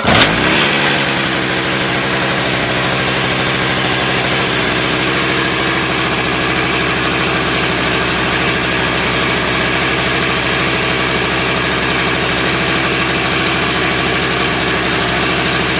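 Toro S-620 snowblower's two-stroke engine firing up from cold on its freshly rebuilt carburettor. It catches suddenly and surges briefly, then settles into a steady run.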